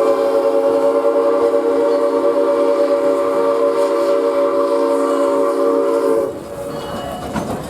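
Steam locomotive whistle of Ventura County Railway No. 2, a Baldwin 2-6-2, giving one long steady blast of several notes sounding together that cuts off about six seconds in, leaving quieter train running noise.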